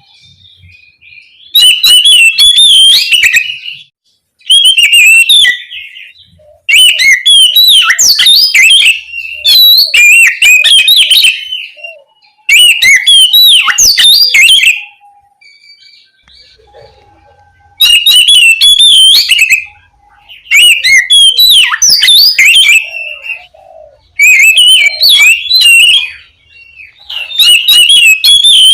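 Oriental magpie-robin singing loudly: about nine bursts of rich, rapidly varied whistles and chirps, each a second or two long, separated by short pauses, with a longer break about halfway through.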